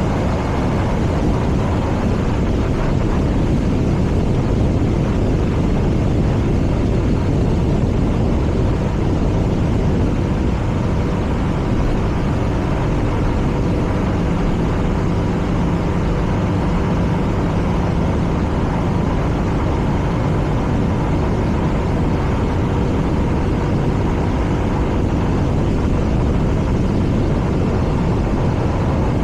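Air/oil-cooled boxer twin of a BMW R nineT motorcycle running steadily, mixed with an even rushing noise.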